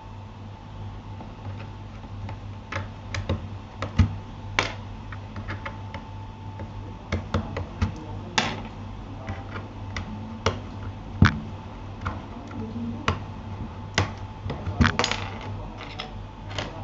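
Keys being pressed on a Keychron K8 mechanical keyboard: sparse, irregular keystrokes, sometimes a few in quick succession, over a steady low hum.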